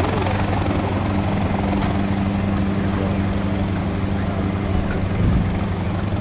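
Pratt & Whitney R-2800 eighteen-cylinder radial engine of a Republic P-47D Thunderbolt running steadily with an even, deep hum, with a brief low thump about five seconds in.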